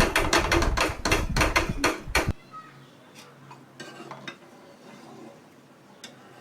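A spoon stirring soaked rice and chicken in a cooking pot, with rapid clinks and scrapes against the pot. It stops suddenly about two seconds in, leaving only a few faint clicks.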